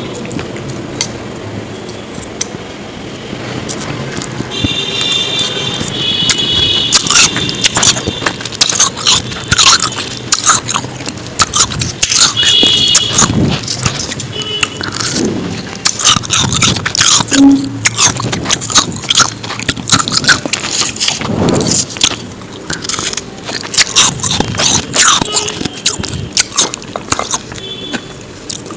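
Ice being bitten and crunched close to the microphone: rapid, sharp, crackling crunches that start about four seconds in and go on in dense clusters.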